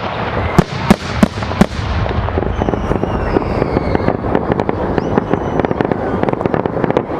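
Fireworks show: four sharp bangs in the first two seconds, then a dense crackling of many small bursts, with a couple of high whistles.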